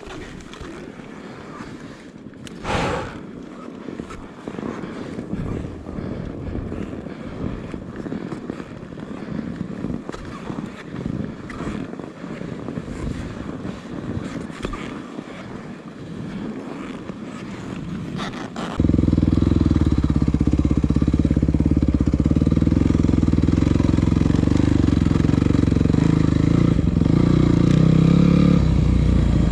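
Uneven rustling noise with one short loud burst about three seconds in, then, about two-thirds of the way through, the Yamaha WR250F's single-cylinder four-stroke engine comes in suddenly and runs steadily, much louder.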